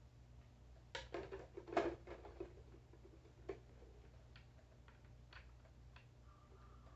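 Clicks and knocks from handling the plastic toy bank: a quick cluster about a second in, then scattered single clicks. Near the end a faint steady electronic tone begins.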